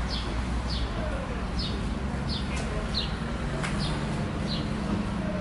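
A small bird chirping over and over, short falling chirps about one or two a second, over a steady low rumble of background traffic.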